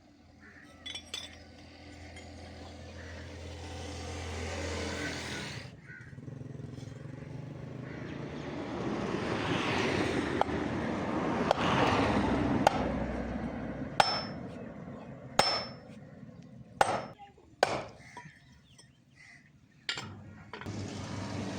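Metalworking sounds: a steady low machine hum under a rising noise that cuts off about six seconds in, then a series of about eight sharp metal knocks, two of them ringing.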